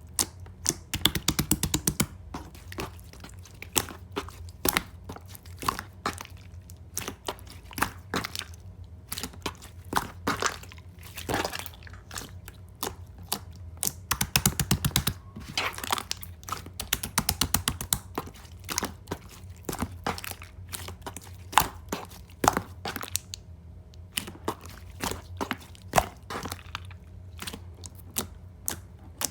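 Clear slime being squished and folded by hand: dense runs of small sticky clicks and air-bubble pops, with single sharper pops in between.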